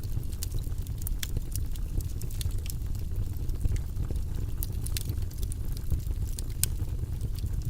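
Wildfire burning: irregular sharp crackles and pops over a steady low rumble.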